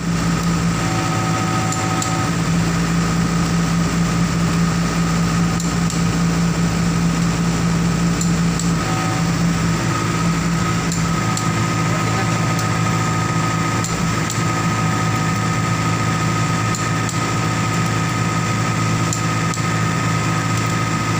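A motor or engine running steadily at a constant speed, with a few light taps now and then.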